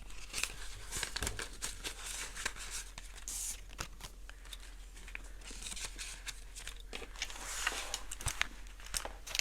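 Paper banknotes rustling and crinkling as they are handled and stuffed into a budgeting binder, with scattered small clicks and taps.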